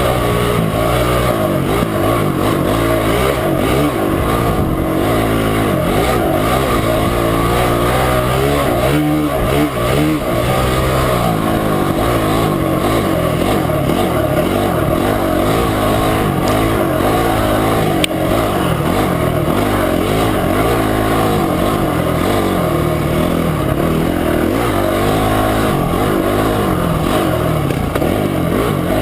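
Motorcycle engine running under way on a trail, its pitch rising and falling continually as the throttle opens and closes, with a brief sharp click about eighteen seconds in.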